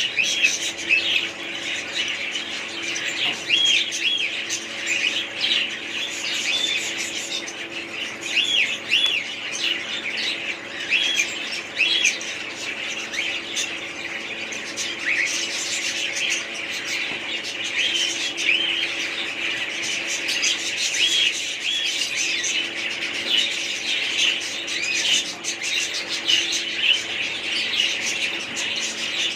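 A group of small pet parrots chattering, with many short, high chirps and squawks overlapping without a break.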